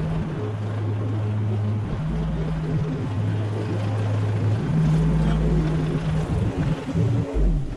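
Mini excavator's diesel engine running under working load, its hum stepping between a lower and a higher pitch every second or two as the hydraulics are worked.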